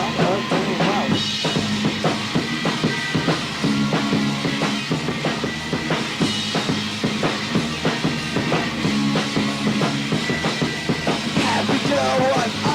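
Punk band playing an instrumental passage on a lo-fi four-track demo recording: a drum kit keeps a steady fast beat under a repeating bass-guitar figure and guitar.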